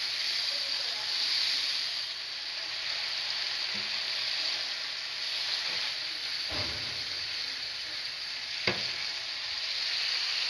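Chicken pieces frying in tikka masala in a pan, a steady sizzling hiss as a little added water cooks off. A spatula stirs and knocks against the pan twice in the second half, the second a sharp tap.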